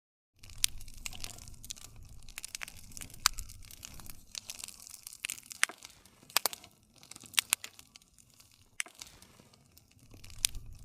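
Campfire crackling. Sharp wood pops and snaps at irregular intervals over a low rumble of the flames. It starts after a brief dead silence.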